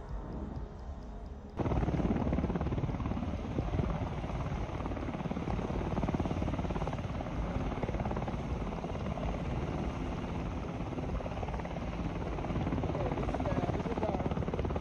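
Loud, steady helicopter rotor and engine noise, cutting in abruptly about one and a half seconds in.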